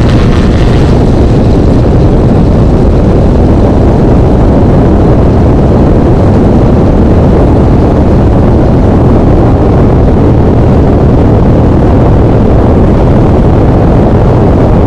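Engine and propeller of a Sting S4 light aircraft running steadily at climb power just after takeoff, a loud, even drone heard from inside the cockpit.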